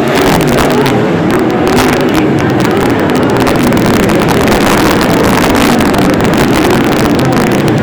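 A field of wingless sprint cars racing, their V8 engines loud at full throttle, several overlapping engine notes rising and falling as the cars go by.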